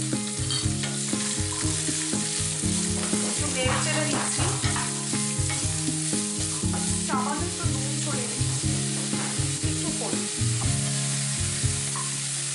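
Chopped rhubarb sizzling in hot neutral oil in a pan, stirred with a spoon or spatula; a steady frying sizzle.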